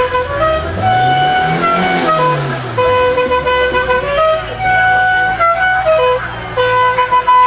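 Musical car horn playing a repeating tune of held notes. Under it, an engine revs up and back down once in the first few seconds, then runs at a steady idle.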